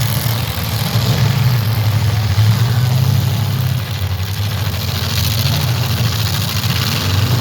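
Engines of demolition derby cars running steadily, a loud low hum that rises and falls a little.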